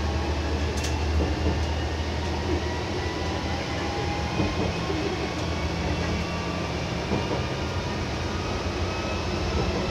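Diesel railcar running along the line, heard from on board: a steady low engine and transmission drone with wheel-on-rail running noise. There is one sharp click about a second in.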